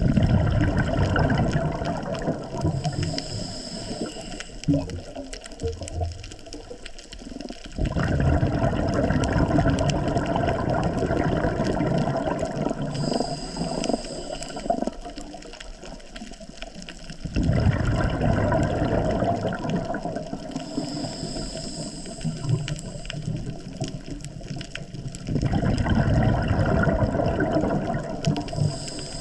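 Scuba diver breathing through a regulator underwater: four exhalations, each a loud gush of bubbles about every eight seconds, with a thin hiss of the regulator on each inhalation in between.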